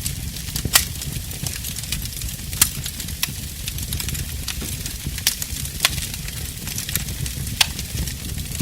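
Wood fire burning in a fireplace: a steady low rumble and hiss with frequent small crackles and a handful of louder pops.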